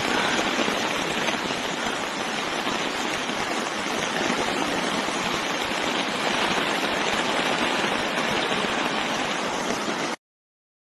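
Steady rush of fast-flowing floodwater, an even hiss with no break, cutting off suddenly about ten seconds in.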